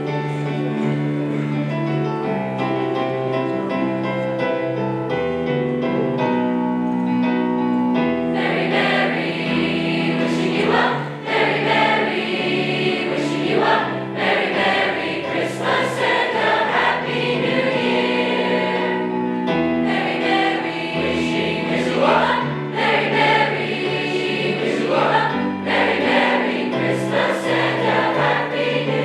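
A choir singing in parts. Held chords for the first several seconds, then sung words come in about eight seconds in.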